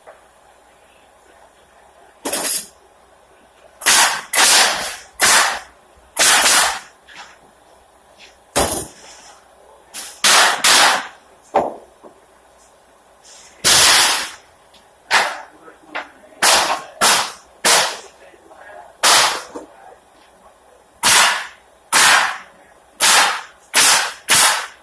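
Pneumatic nail gun driving nails into pallet boards: a run of about twenty loud, sharp shots at irregular intervals, quiet between them.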